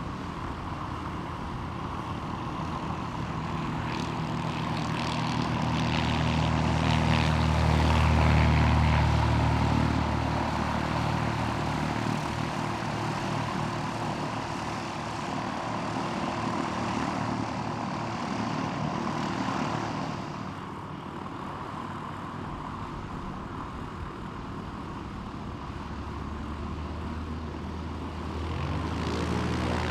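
Light propeller aircraft's engine passing by, growing loud about a quarter of the way in and then fading away. Near the end a second propeller engine grows louder.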